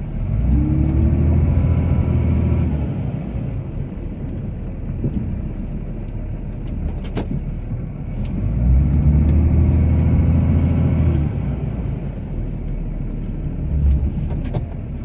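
Cummins inline-six turbo diesel in a Ram pickup, heard from inside the cab, revving up and dropping back twice while plowing snow, with a third rise starting near the end. A single sharp click about halfway through.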